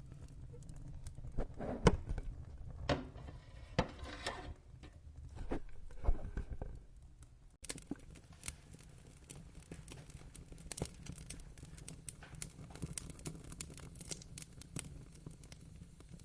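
Wood fire crackling in a fireplace: scattered sharp pops and snaps over a low steady rumble, with several louder snaps in the first half. About halfway through, the sound changes abruptly to denser, smaller crackles.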